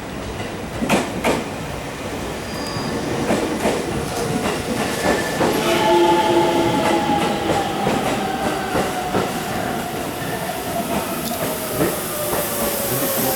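373-series electric train pulling in and slowing: wheels click over rail joints and points, and from about five seconds in a whine that slowly falls in pitch as the train slows.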